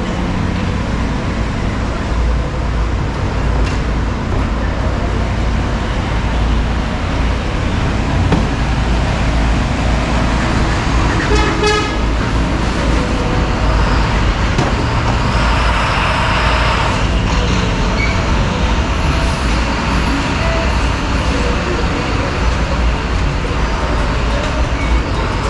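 Steady street traffic noise with vehicles running past, a short horn toot about eleven seconds in, and a hissing burst a few seconds later.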